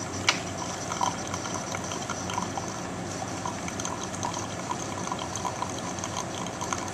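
Keurig B130 single-cup brewer dispensing hot coffee, a steady stream trickling into the mug, with faint bubbling ticks and one light click near the start.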